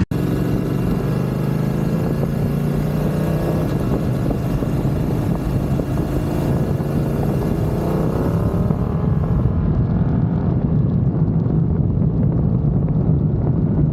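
BMW motorcycle engine running under way, with wind rush on the microphone; the engine note rises as the bike speeds up about two-thirds of the way through.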